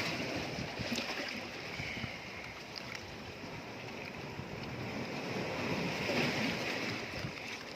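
Sea waves washing against shore rocks, a steady rush that swells about six seconds in, with wind on the microphone.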